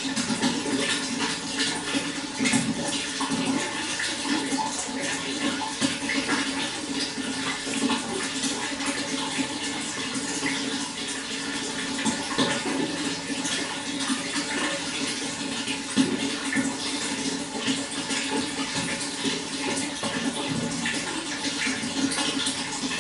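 Water running and splashing in a steady, unbroken flow.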